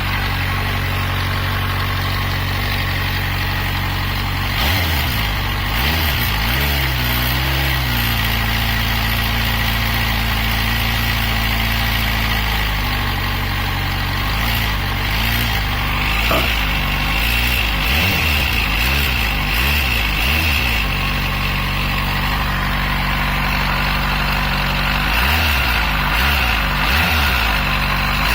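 Yamaha FZ6 inline-four motorcycle engine idling steadily and blipped up in a few short bursts of revs, three times. The owner recorded it to chase an engine knock, and says the cam chain is in ideal condition.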